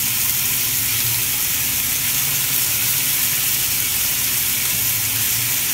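Marinated beef tenderloin strips and vegetables sizzling steadily in a very hot stainless-steel frying pan.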